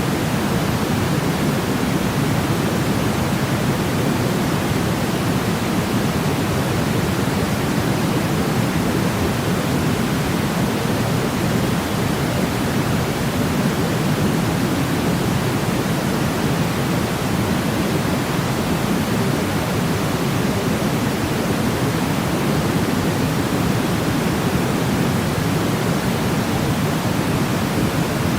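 Steady white-noise sleep sound: an even, unbroken hiss with most of its weight in the low-middle range, without any change.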